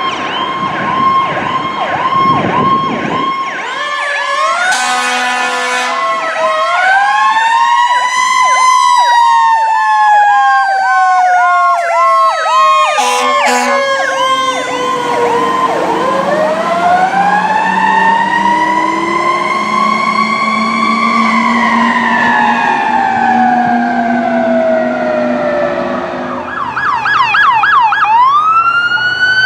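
Sirens of a fire engine and an ambulance running together: electronic sirens in a fast warble and yelp, and long slow wails that rise and fall, one from a Federal Q mechanical siren. A horn blast comes about five seconds in.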